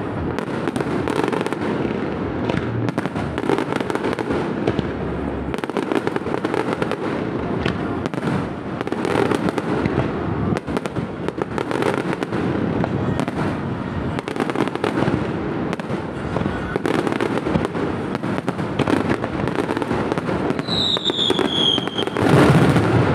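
Aerial fireworks display: a dense, continuous barrage of shell bursts and crackling. Near the end there is a high falling whistle, then a louder burst.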